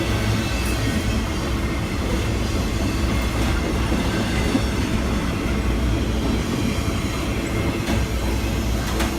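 A train running past on the rails: a steady rumble of wheels on track over a low, even drone.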